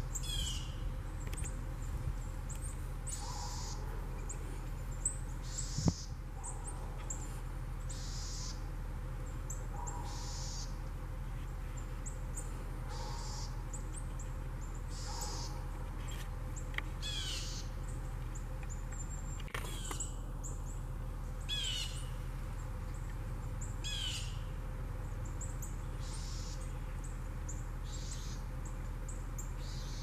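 Birds calling outdoors: short high calls repeating about every two seconds, with a few sharp falling notes partway through.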